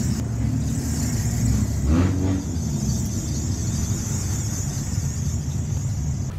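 A car engine running at a steady idle: a low, even rumble with a steady high hiss over it, and a brief louder sound about two seconds in.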